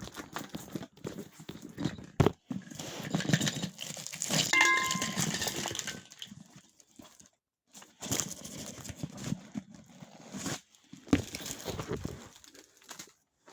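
Rustling, crinkling and knocking of small stored items (gloves, a rag, levelling shims) being rummaged through and taken out of a steel tent stove, with a short squeak about four and a half seconds in.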